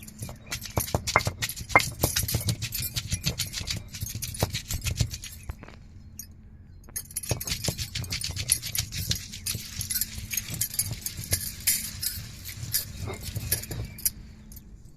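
Hand grinding on an ammi, a flat stone slab worked with a stone roller: rapid gritty scraping and clicking strokes as garlic is crushed into a coarse coconut and dried-chilli paste. The strokes stop for about a second and a half midway, then start again.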